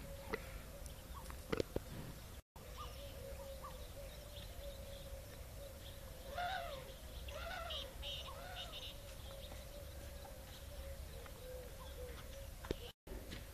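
Birds chirping and calling, with three rising-and-falling calls in a row around the middle, over a steady hum. The sound drops out briefly twice.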